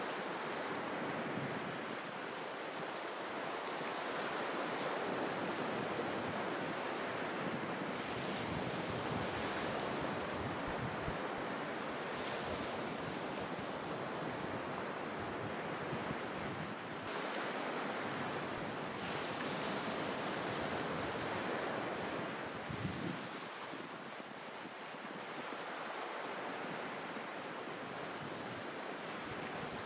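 Sea waves breaking and washing on a beach in steady surges, with wind buffeting the microphone.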